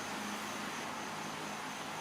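Steady background hiss with a faint low hum, unchanging throughout; room noise of the kind a fan or air conditioner gives.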